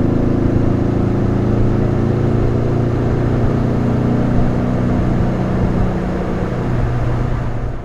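Porsche 356's air-cooled flat-four engine running steadily under way at a steady pitch, in good tune and sounding great. Its note thins out somewhat toward the end and then cuts off abruptly.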